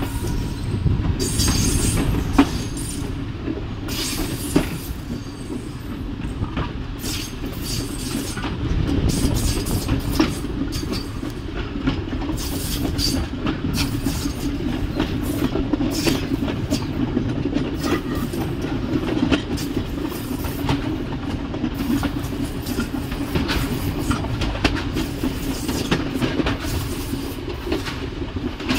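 Train running along the track, heard from on board: a steady low rumble with frequent clicks and clacks of the wheels over the rails.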